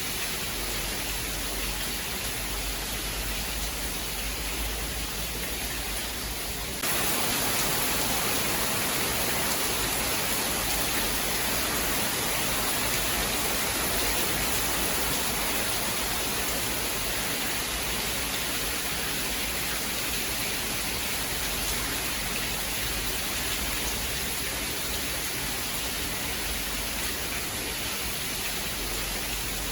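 Steady heavy rain, an even hiss, which steps up suddenly about seven seconds in to a louder, brighter hiss and stays there.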